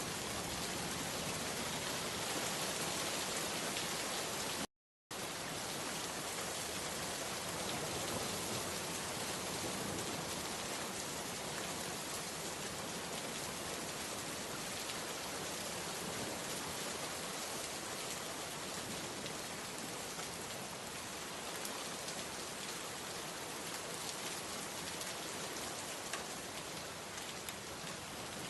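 Steady rain falling, with a brief cut to silence about five seconds in.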